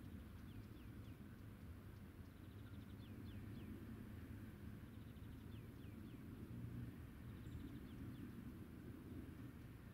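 A small bird singing faintly, repeating a short phrase about every two and a half seconds: a quick ticking trill followed by two falling whistled notes, over a low steady rumble.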